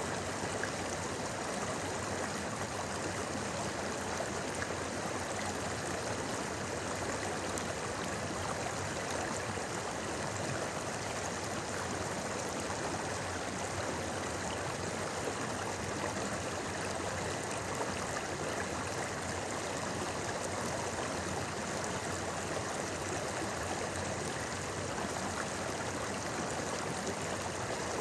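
River water babbling steadily, an even, continuous rush with no breaks.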